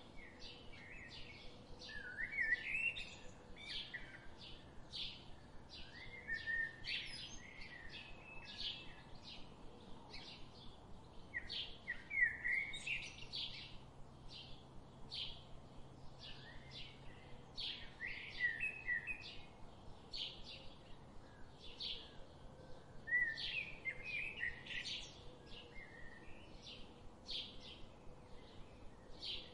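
Birds singing and calling: a short, high note is repeated steadily about twice a second, and louder warbling phrases break in every few seconds.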